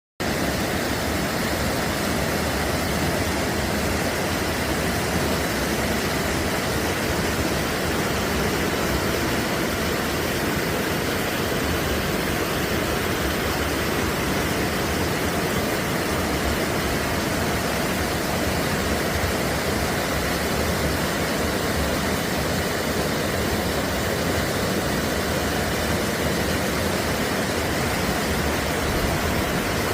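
Floodwater rushing, a steady, unbroken roar of moving water.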